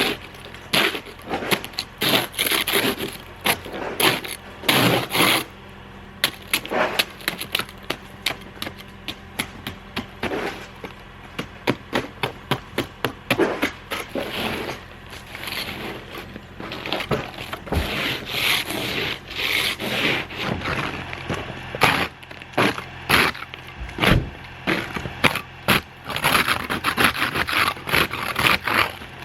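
Plastic ice scraper scraping ice and crusted snow off a frozen car, in many quick, irregular strokes with crunching and cracking.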